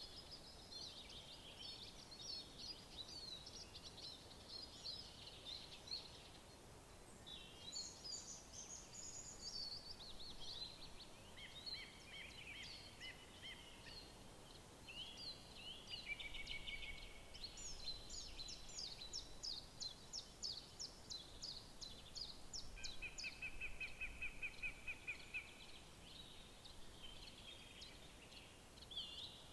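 Several songbirds singing together over a soft steady background, with overlapping phrases, quick trills, and a run of evenly repeated notes about two-thirds of the way through.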